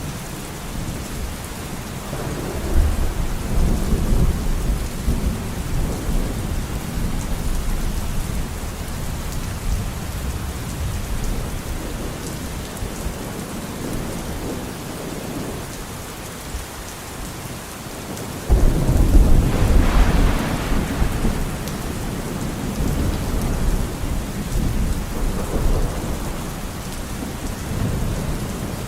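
Steady rain falling, with rolling thunder: a low rumble a few seconds in, a sudden loud crack and rumble about two-thirds of the way through, and a softer rumble near the end.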